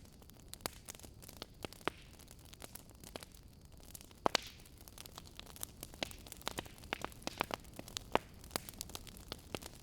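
Wood fire in a fireplace crackling: irregular sharp pops and snaps over a soft steady hiss of flame, with one louder pop about four seconds in and a busier run of crackles after six seconds.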